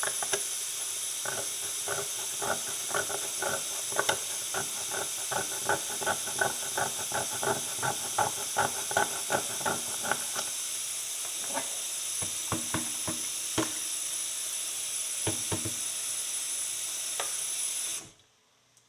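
A metal pick scraping and ticking against a horseshoe, about three strokes a second for several seconds and then a few scattered strokes, over a steady hiss that cuts off suddenly near the end.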